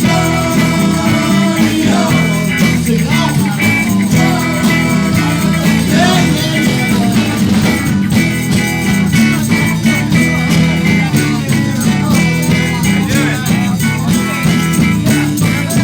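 Live band playing an instrumental passage, a bass line stepping through low notes under steady drums and guitar.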